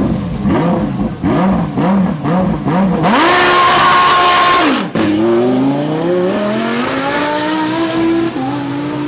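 Race car engine on a hill-climb start line. It is blipped up and down several times, then held at high revs, then launched, climbing steadily in pitch and shifting up once near the end.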